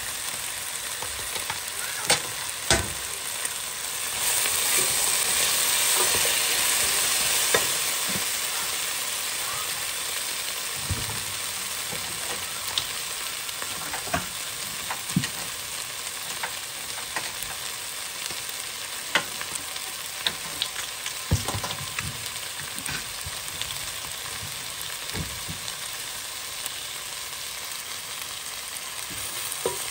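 Chicken, vegetables and rolled oats sizzling in a pot as a wooden spoon stirs them, with scattered sharp knocks of the spoon on the pot. The sizzle swells louder for a few seconds about four seconds in.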